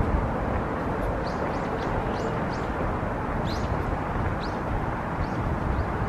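Small birds giving short high chirps, a dozen or so from about a second in, over a steady low rushing noise.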